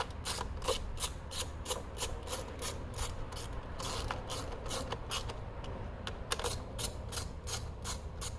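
Hand ratchet clicking in quick, even strokes, about four clicks a second, as bolts are driven back into the engine.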